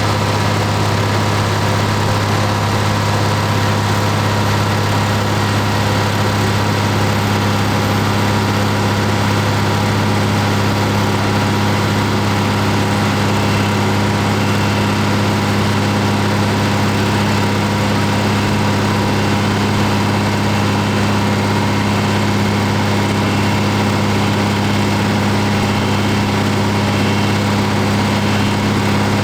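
Deutz-Fahr Agrotron M620 tractor's diesel engine running at a steady, unchanging speed while it drives a PTO dynamometer, with a low, even drone and no change in pitch.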